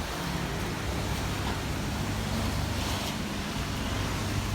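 Strong wind gusting over the microphone, a steady rushing noise with a low rumble.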